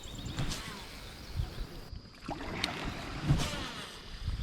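Water sloshing around a kayak, with a few light knocks on the hull.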